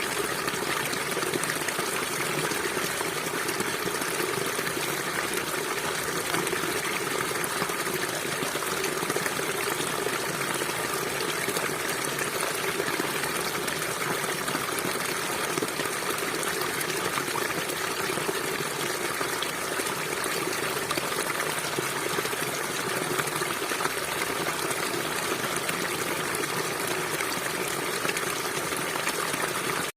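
River water flowing, a steady continuous rush with no change in level.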